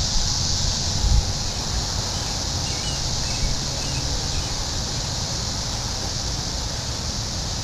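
Steady high-pitched drone of a periodical cicada chorus, with a low rumble of wind on the microphone underneath.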